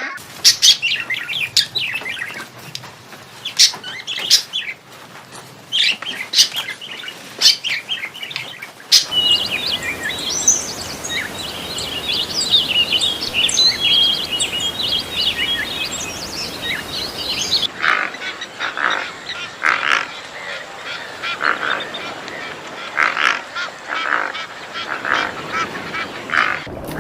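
Birds calling in three cut-together stretches: short repeated calls for about the first nine seconds, then dense high chirping song, then short repeated calls again for the last nine seconds.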